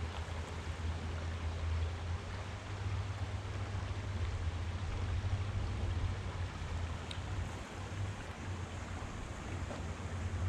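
Wind buffeting the microphone: a steady, wavering low rumble over a faint outdoor hiss.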